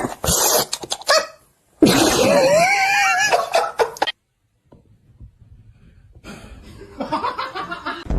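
People laughing in loud bursts, with the sound dropping out to silence for about half a second a little after four seconds in.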